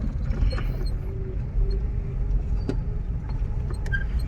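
Car driving slowly, a steady low rumble of its engine and tyres with a few faint clicks.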